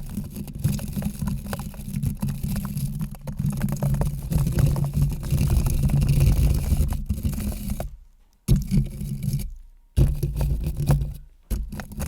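Close-miked scratching and rubbing: a dense stream of small clicks and scrapes over a heavy low rumble. After about eight seconds it breaks into separate strokes that start suddenly and fade out, with short silences between them.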